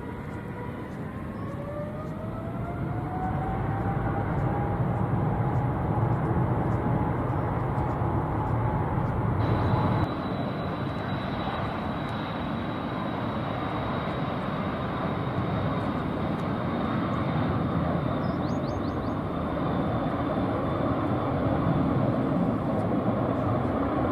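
Jet airliner engines: a rumbling roar with a whine that rises in pitch over the first few seconds as the engines spool up. About ten seconds in the sound changes abruptly to another jet's roar with a high, slowly falling whine.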